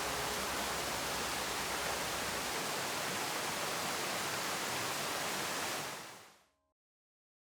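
Steady, even rushing hiss with no distinct events, fading out to silence about six seconds in.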